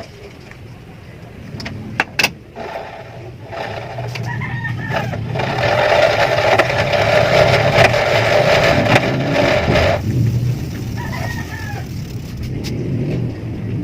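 A rooster crowing, with a loud steady noise lasting several seconds that stops suddenly, and two sharp clicks about two seconds in.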